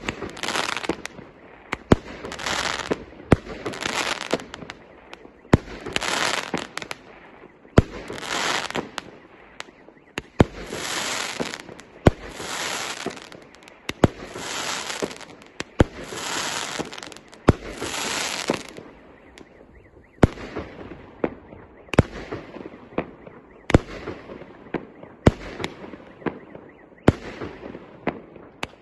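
A 1.25-inch, 50-shot fireworks cake firing its shots in quick succession, about one a second. Each shot is a sharp launch bang followed by a hissing burst. From about two-thirds of the way in, the bursts are fainter.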